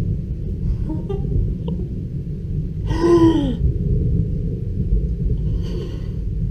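Thunder rolling in a steady low rumble, with a short vocal exclamation about three seconds in.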